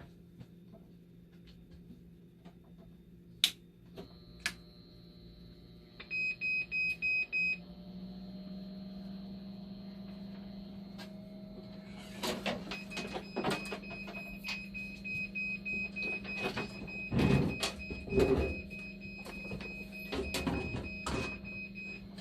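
Dialysis machine powering up on a replacement power supply: a few clicks, a quick run of beeps about six seconds in, then its internal hum steps up and runs steadily. From about twelve seconds in a steady alarm-like beep tone sounds, with clicks and knocks, the loudest near seventeen and eighteen seconds. The loud noise of the old, failing power supply is gone.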